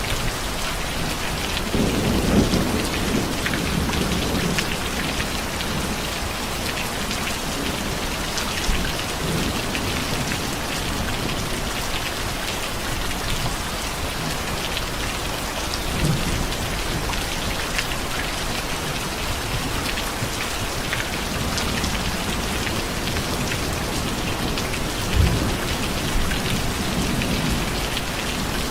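Steady rain falling, with several low rumbles of thunder; the loudest is a short sharp crack near the end.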